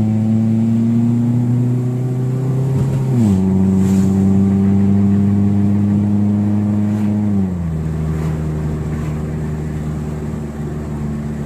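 Proton Satria Neo's engine pulling hard through the gears: the engine note climbs, drops sharply with an upshift about three seconds in, then drops again with another upshift near the middle and settles to a steady, lower drone.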